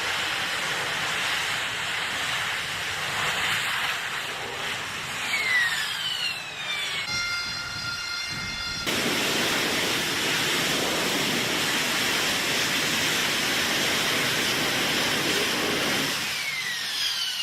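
Aircraft turbine engines running loud on a carrier's flight deck: a steady rushing roar with a whine that falls in pitch twice, and a short steady high tone between.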